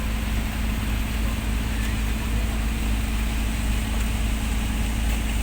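A squid fishing boat's engine running steadily, a low drone with a constant hum.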